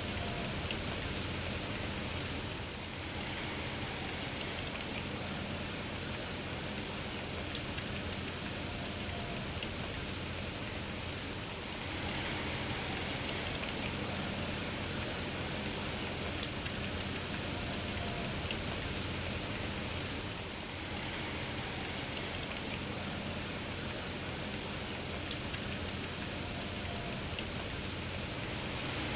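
Steady rain falling. Three sharp single ticks stand out over it, evenly spaced about nine seconds apart.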